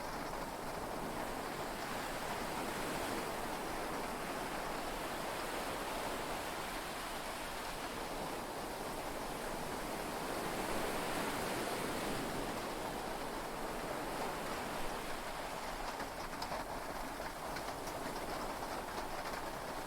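Heavy rain and sea waves heard from inside a yacht cabin: a steady rushing hiss that swells slightly about ten seconds in, with scattered faint ticks in the last few seconds.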